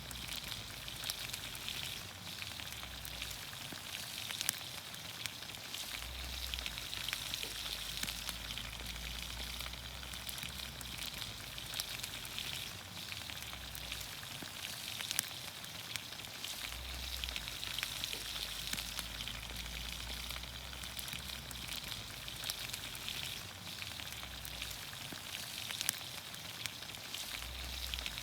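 Green beans, onions, carrots and potatoes sizzling in olive oil in a pan over a campfire: a steady sizzle with many small scattered pops.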